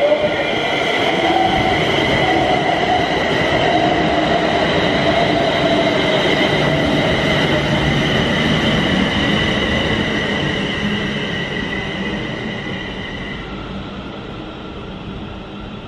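London Northwestern Railway Class 350 Desiro electric multiple unit passing close by, with a steady rumble of wheels on rail and a high whine over it. It fades from about three-quarters of the way through as the train draws away, then cuts off suddenly.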